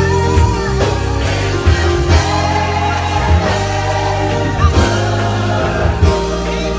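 Gospel choir singing with band accompaniment: steady bass, drums and keyboard under sustained sung lines.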